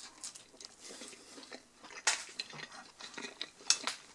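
Close-up chewing of a bite of thin-crust chicken pizza, with several short sharp crunches. The sharpest come about two seconds in and near the end.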